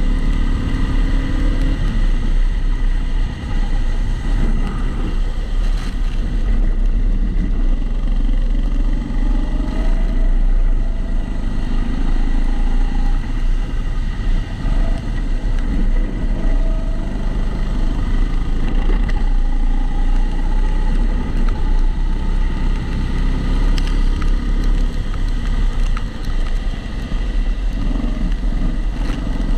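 Onboard sound of a Kombikart Eco rental kart lapping, its engine note rising and falling through the corners over a constant heavy rumble. The sound is muffled by the camera's waterproof housing, which adds a steady background noise.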